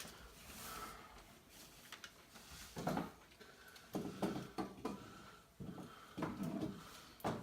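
Faint knocks and rattles of small objects being handled, coming in a few short clusters over a low background hum.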